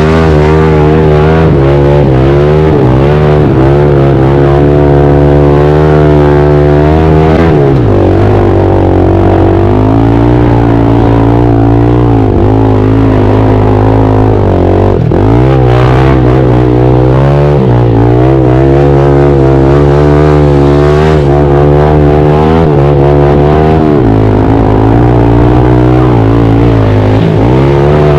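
Pit bike engine revving hard, recorded loud and close, its pitch dipping and climbing back several times as the rider shifts and works the throttle.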